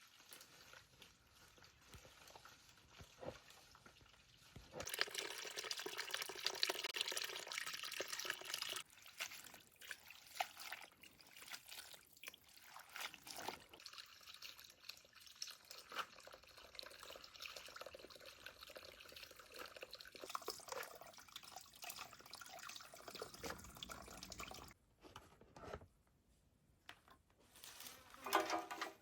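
Water running from a tap and splashing, loudest for about four seconds from about five seconds in, followed by drips and light clatter of washing in a sink.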